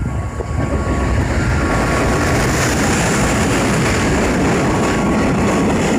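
Freight train hauled by an EF510 electric locomotive passing through at speed: a loud, steady rush of wheels on rail that swells over the first second or two.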